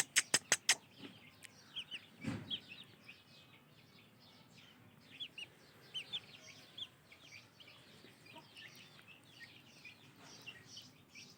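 A quick run of about five sharp clicks at the start, then a soft thump about two seconds in. After that come faint short bird chirps, scattered through the rest.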